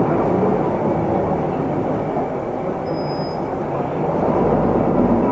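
Isuzu Erga Mio diesel city bus on the move, heard from inside the cabin: steady engine and road rumble that eases slightly in the middle and picks up again about four seconds in. A short faint high beep sounds about three seconds in.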